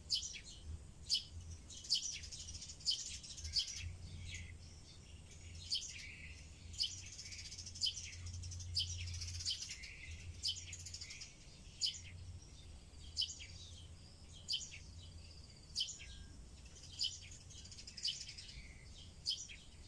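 Birds chirping in the background: short, sharp high chirps roughly once a second over a softer, continuous high chatter, with a faint low hum underneath.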